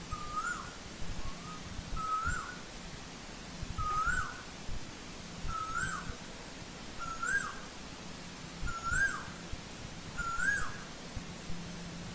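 Asian koel calling: a rising two-note call repeated seven times, about one every one and a half seconds.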